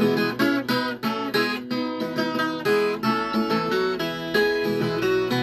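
Viola caipira, the Brazilian ten-string folk guitar, played in a quick run of plucked and strummed notes with no singing.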